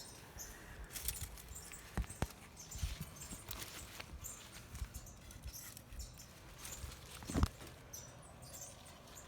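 Faint rustling and light scattered clicks of someone moving among tomato plants and their stakes, with a sharper knock about two seconds in and another about seven and a half seconds in.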